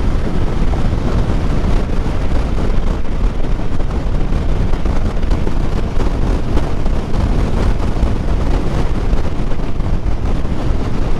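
Steady wind noise rushing over a helmet-mounted microphone on a motorcycle at highway speed, with the low rumble of road and engine underneath.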